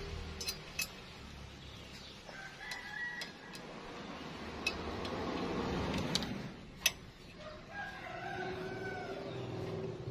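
An animal call heard twice, each about a second long, over scattered sharp clicks and taps.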